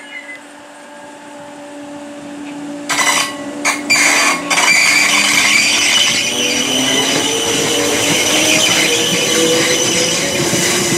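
Merseyrail Class 507 electric multiple unit running into the platform and past at close range. A few sharp, loud noises come about three to four and a half seconds in, then a whine that rises in pitch over the running noise.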